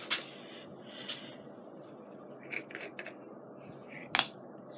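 Scrapbooking paper and supplies being handled: soft rustling with scattered small clicks and taps, the sharpest about four seconds in.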